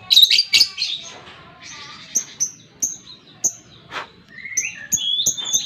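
Lovebird calling: a loud burst of harsh chattering at the start, then a run of short, sharp, high chirps about three a second, with a brief gliding call near the end.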